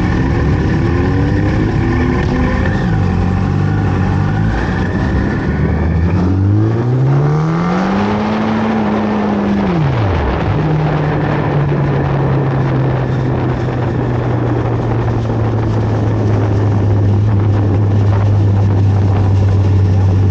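Sport-bike engine revving through the gears in stepped climbs, then rising to a peak and falling away, then holding a steady note for the second half.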